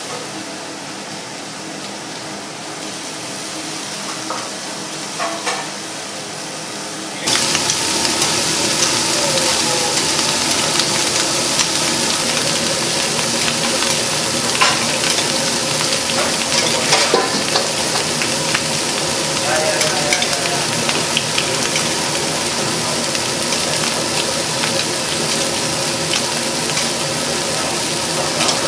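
Burger patties sizzling on a hot cooking surface: a loud, steady frying hiss that starts abruptly about seven seconds in, after a quieter stretch with a few clicks of kitchen handling.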